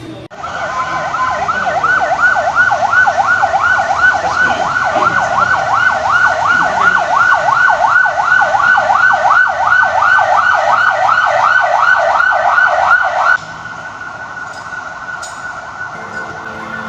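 Electronic siren in a fast yelp, its pitch sweeping up and down about three times a second, loud and steady, then cutting off suddenly about thirteen seconds in.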